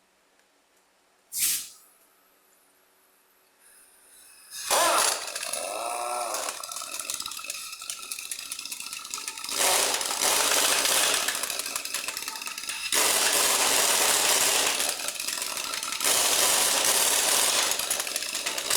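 Pneumatic impact wrench running in several long rattling bursts, starting about five seconds in after one sharp click, as used to run lug nuts on when refitting a wheel.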